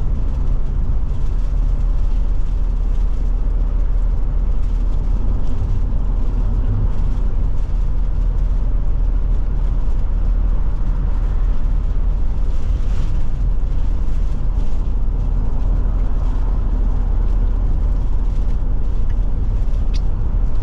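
Forest River Forester motorhome driving, its engine and tyres making a steady low drone and road rumble.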